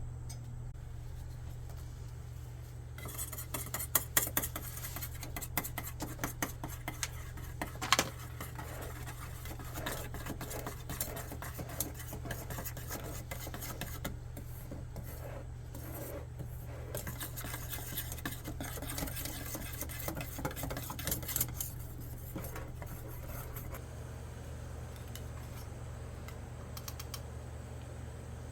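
Metal utensils clinking and scraping against dishes and cookware in a run of irregular clicks and scrapes, the sharpest about four and eight seconds in, dying away near the end. A steady low hum runs underneath.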